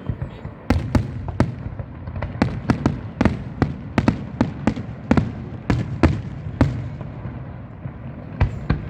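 Fireworks going off in a quick, irregular string of sharp bangs, a few every second, that thins out after about six and a half seconds; two last bangs come close together near the end.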